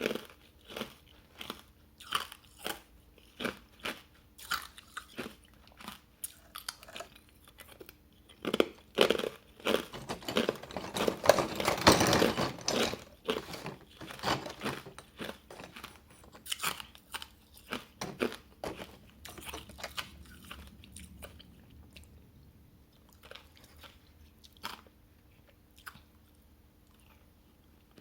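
Hard ice coated in matcha powder being bitten and chewed close to the mouth: a run of sharp crunches, densest and loudest in the middle, thinning to a few scattered crunches near the end.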